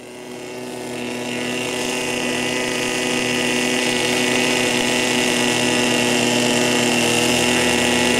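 In-line engine of an RC airboat running steadily with its propeller, growing louder over the first few seconds and then holding at a constant pitch.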